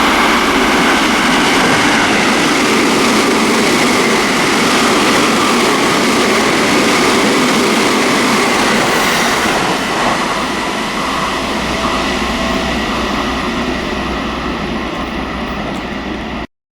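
Seibu Railway electric commuter train passing through a station without stopping: loud wheel-on-rail noise with steady whining tones, easing slightly in the second half. The sound cuts off abruptly just before the end.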